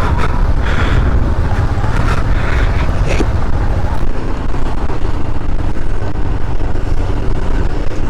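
Riding noise on a motorcycle: a loud, steady wind rumble on the microphone mixed with road and engine noise, with a few light knocks in the first three seconds.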